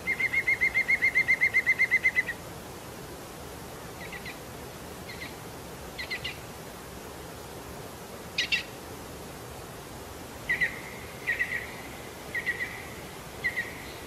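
Forest bird calling: a fast, even trill of about eight identical notes a second for roughly two seconds, then short single and clustered call notes at the same pitch, spaced out through the rest.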